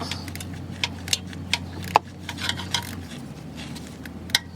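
Scattered light metallic clicks and clinks of hand tools and parts being handled, over a steady low hum.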